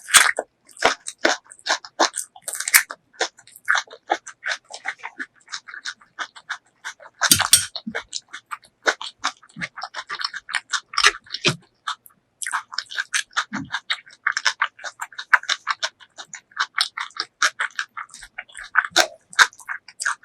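Close-miked eating sounds: wet chewing and lip smacking in a rapid, uneven run of small clicks, with a few deeper thumps.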